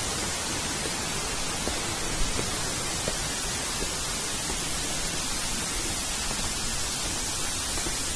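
Steady rush of a waterfall, an even hiss of falling water that does not change.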